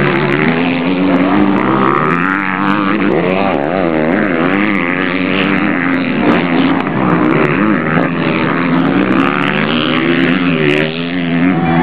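Several motocross bikes' engines revving hard and overlapping, the pitch rising and falling with each throttle change and gear shift as they race round the track.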